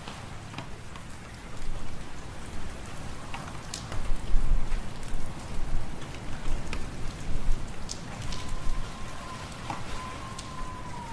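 Fireplace fire crackling, with scattered sharp pops, over gusting wind that swells and falls with a low rumble. A thin, steady whistle sounds for about three seconds near the end.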